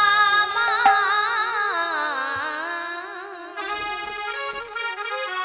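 Bengali kirtan music: a woman's long, wavering sung note over harmonium, with the harmonium taking over with a bright reedy phrase a little past halfway.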